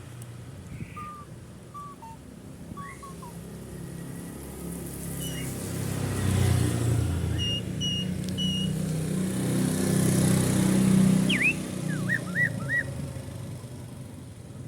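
Asian pied starling (jalak suren) giving short, clear whistled notes, a few at a time, while a passing motor vehicle's engine rumble swells through the middle and fades near the end.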